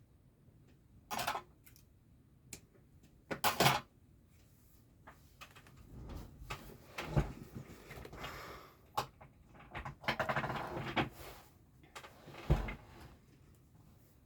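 Hands handling cross-stitch materials: intermittent rustling, sharp clicks and a couple of dull thumps.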